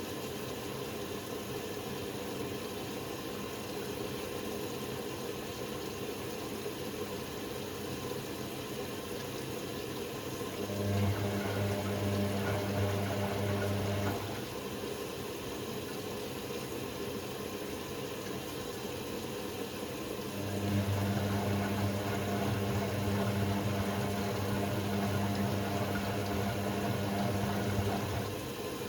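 Hoover Sportswear 1300 washing machine mid-cycle: a low motor hum comes on twice, for about three seconds and then about seven seconds, over a steady wash of water noise.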